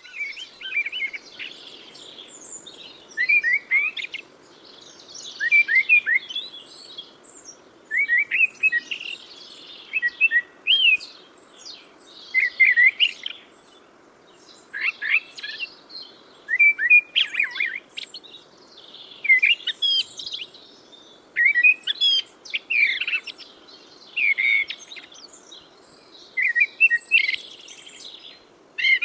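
Bird song: a small bird repeating short, quick chirping phrases every second or two, over a steady low hiss.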